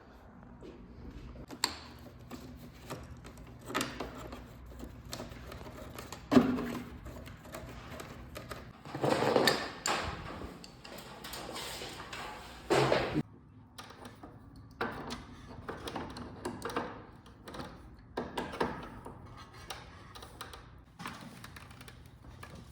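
Irregular knocks, clicks and clatter of handling work, with a few louder scraping rushes about six, nine and thirteen seconds in.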